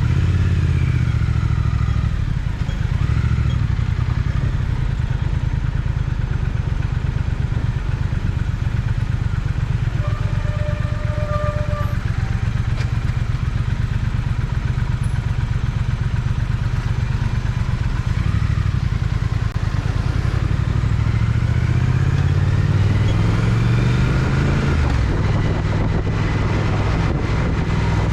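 Triumph Speed Twin's parallel-twin engine running under way, with a steady low exhaust rumble. About twenty seconds in its pitch climbs as the bike accelerates.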